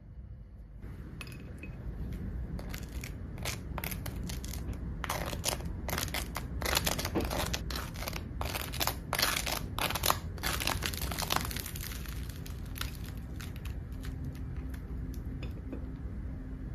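A dense run of crisp crunching and crinkling crackles, starting about a second in, thickest in the middle and thinning out near the end, over a low steady rumble.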